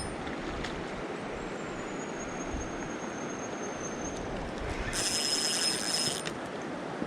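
Steady rush of river water. About five seconds in, a brief high buzz lasts just over a second.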